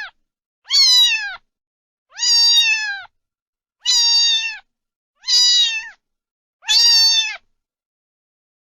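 A domestic cat meowing repeatedly: five separate meows, about one every one and a half seconds, each held briefly at a high pitch before falling away at the end.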